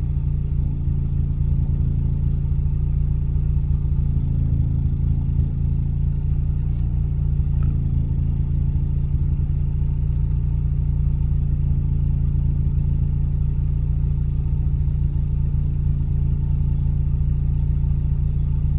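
Ford Fiesta ST engine idling steadily through a straight-piped exhaust, warmed up and held at idle while Forscan's misfire monitor profile correction waits for throttle.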